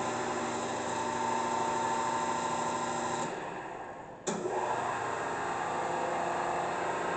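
P&H WP-3 welding positioner's tilt drive, an electric motor and gearing, running with a steady mechanical hum as the table tilts. It winds down about three seconds in and starts again abruptly a second later.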